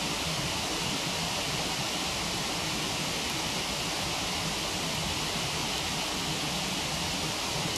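Steady rush of a waterfall, with one faint crackle from the wood fire about three seconds in.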